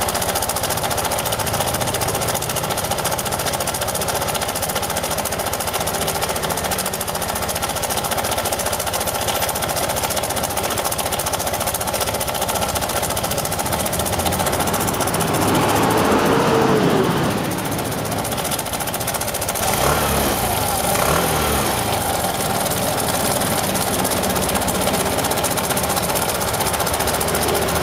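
Suzuki Address V125SS scooter's single-cylinder four-stroke engine running with a repeating 'cha… cha… cha' abnormal noise, the fault being tracked down. The engine speed rises and falls briefly a little past halfway, and again a few seconds later.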